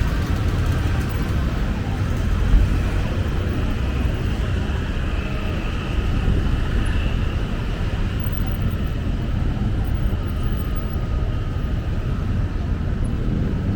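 Steady city traffic noise, a continuous low rumble of passing vehicles.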